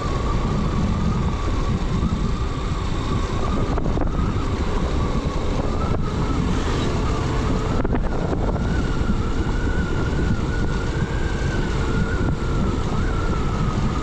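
Motorcycle engine running steadily as the bike rides along, with wind noise on the microphone. The engine's pitch edges up slightly about halfway through.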